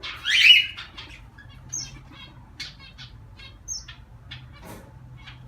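A mixed group of pet cage birds calling: one loud harsh squawk about half a second in, then a stream of short, separate chirps and tweets. A faint low hum runs underneath.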